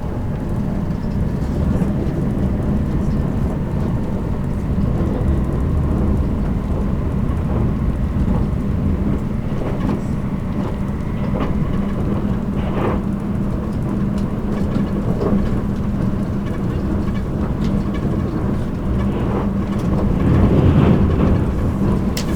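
JR Kyushu 783 series electric express train running, heard from inside motor car MoHa 783-13: a steady low rumble of wheels on rail with a steady hum and scattered faint knocks, swelling slightly near the end.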